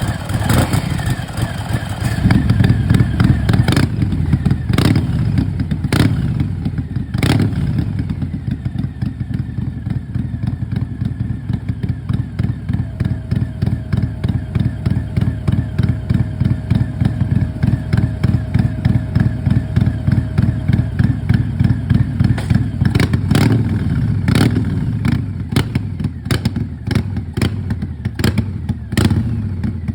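Harley-Davidson Fat Boy 114's Milwaukee-Eight V-twin running through its exhaust, idling with a loping, pulsing beat. The throttle is blipped a few times, early and again about three quarters in, with sharp cracks from the exhaust around the blips and near the end.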